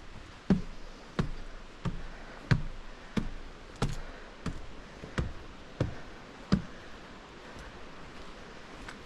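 A hiker's footsteps, about ten evenly paced footfalls with a dull thud, stopping about two-thirds of the way through.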